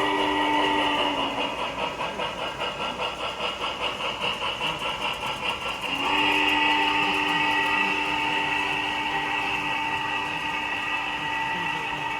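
Model train locomotive running with its onboard sound playing. A steady hum of several tones breaks, about a second and a half in, into rapid rhythmic pulsing of roughly four to five beats a second. The steady tones return about six seconds in.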